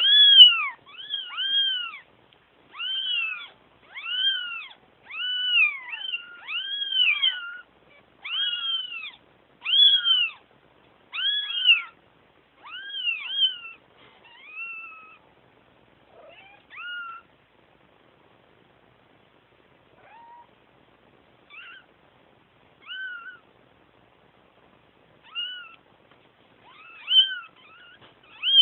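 Young kittens meowing: high-pitched, rising-and-falling cries about once a second, some overlapping. They thin out to occasional single cries about halfway through and pick up again near the end. They are crying for their mother.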